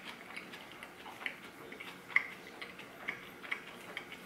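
Faint, close-miked chewing of a soft flour-tortilla taco: small irregular wet mouth clicks, about two or three a second.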